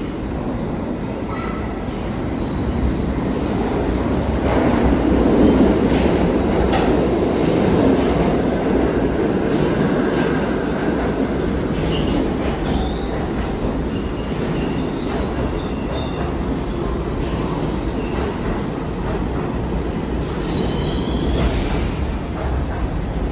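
New York City subway train running through the station: a steady rumble that swells about five seconds in, with a few sharp clicks from the wheels and a brief high wheel squeal near the end.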